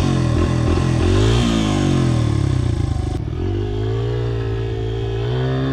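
Honda XR100 dirt bike's single-cylinder four-stroke engine being ridden, the revs rising and falling with throttle and gear changes, then holding a steadier, slowly climbing note from about three seconds in.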